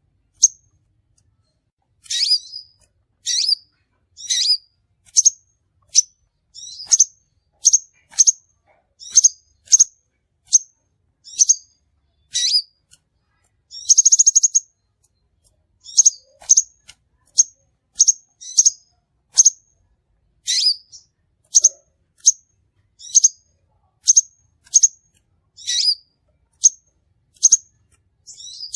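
Crimson sunbird (sepah raja) lure recording: a run of sharp, high chirps, about one or two a second, starting about two seconds in, with one longer buzzy trill about halfway through.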